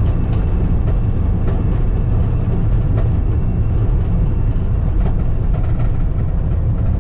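Skid steer engine running steadily under load while it grades a gravel driveway, with a few sharp clicks over the engine noise.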